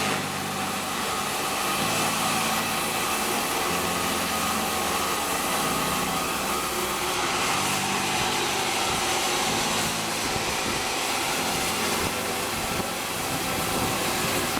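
Sawmill saw running with a steady rushing noise.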